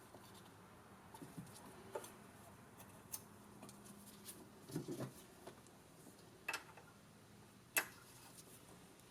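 Scattered light clicks and taps of hand tools working the rocker arms of a golf cart's gas engine during a valve-lash adjustment. A few duller knocks come about halfway through, and the sharpest click comes near the end.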